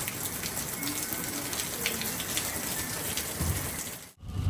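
Heavy rain pouring down, a steady hiss of water with scattered splats of drops. It cuts off abruptly about four seconds in.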